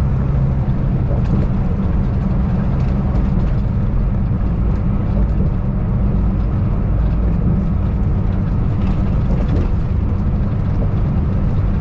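Steady engine drone and road rumble inside a semi truck's cab at highway speed.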